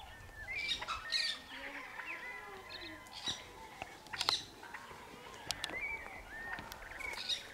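Several birds chirping and calling, with short rising and falling notes overlapping one another and a few sharp clicks mixed in.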